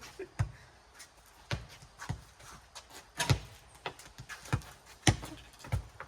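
Rubber playground ball in a four-square rally, bouncing and being struck by hand. It makes a run of sharp hits, roughly one every half second to a second.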